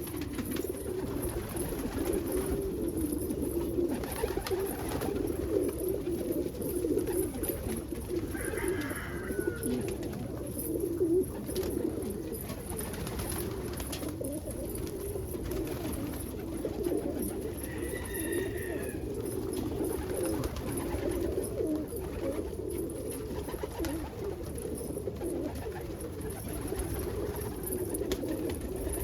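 Many domestic pigeons cooing together in a loft, a continuous overlapping low cooing. A short higher call breaks in about nine seconds in and again about halfway through.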